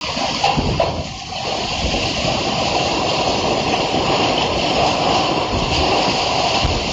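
Windstorm noise: a loud, steady rushing with an uneven low rumble underneath.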